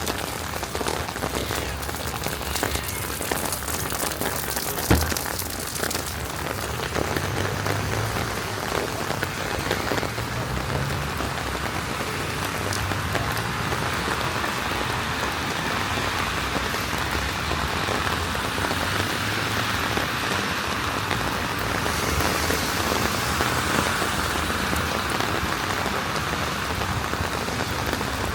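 Steady rain falling, with a single sharp knock about five seconds in.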